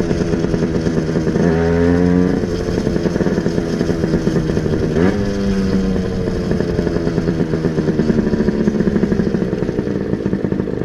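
Motorcycle engine running under way: its note climbs briefly near two seconds in, jumps sharply about five seconds in, then sinks gradually.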